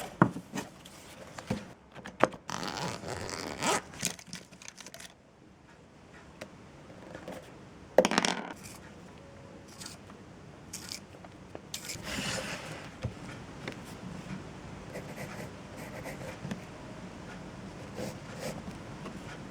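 Handling noises: objects scraping and rubbing against a surface, with several sharp knocks, the loudest about eight seconds in.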